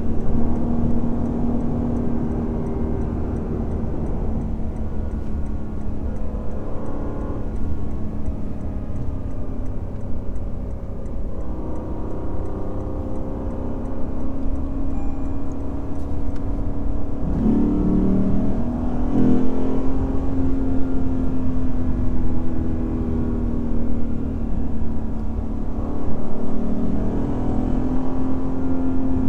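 Lexus IS500 F Sport Performance's naturally aspirated 5.0-litre V8 running at a steady cruise, with a steady engine note. About two-thirds of the way through, the pitch drops briefly and then climbs back as the revs change.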